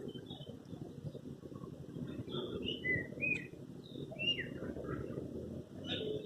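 Birds chirping and whistling in short, scattered calls, some gliding down in pitch, over a steady low rumble of background noise.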